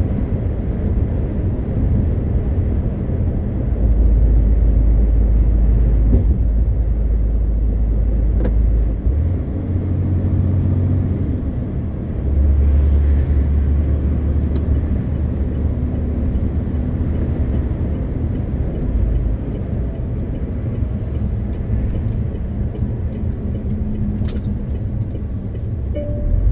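MAN TGX 520 truck's straight-six diesel engine running under way, with steady road rumble. The low drone grows heavier for several seconds about four seconds in, and again from about twelve seconds in.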